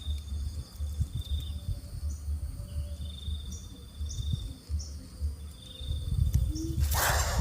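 An insect trilling in high, steady phrases of a second or so, repeating every couple of seconds, over a low rumble, with a few short high chirps. Near the end a short, loud hiss cuts in.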